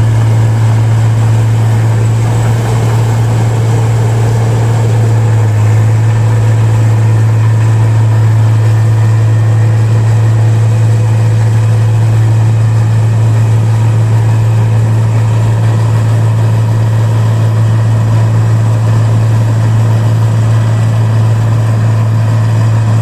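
Rice-paddy machine running steadily at constant speed, a loud, unchanging low hum.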